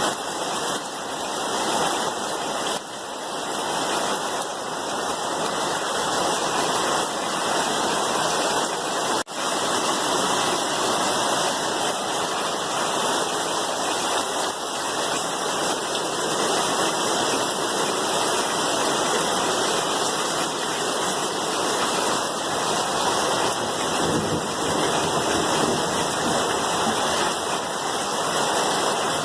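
Steady, dense rainfall hiss with no pauses, dipping briefly about nine seconds in.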